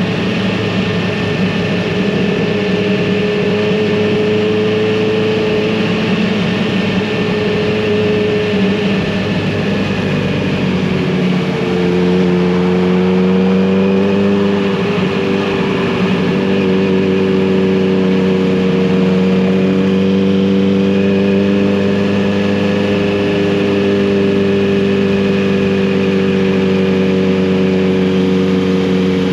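Kawasaki Z900RS inline-four motorcycle engine and exhaust running under way at a steady cruise. Its pitch and loudness rise a little about eleven seconds in, then hold steady again.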